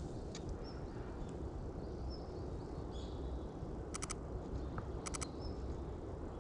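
Small birds calling in woodland: several short, faint high chirps, and two brief buzzy calls about a second apart near the end, over a steady low rumble of walking and microphone handling.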